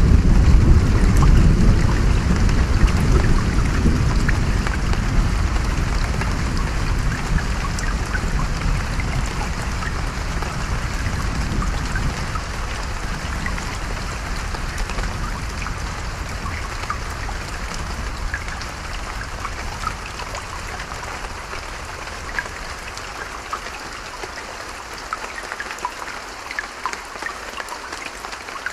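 Rain with a running stream, thick with small pattering drops, under a long low rumble of thunder that is loudest at the start and slowly fades away.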